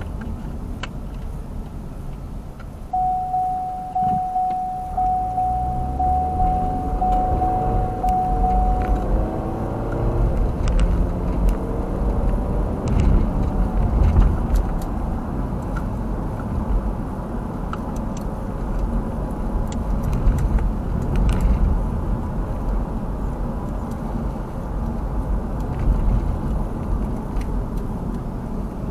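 Car cabin sound through a dash camera: an in-car warning chime repeats for about six seconds, then the engine speeds up, rising in pitch as the car pulls away. After that there is steady engine and road rumble with scattered clicks and rattles.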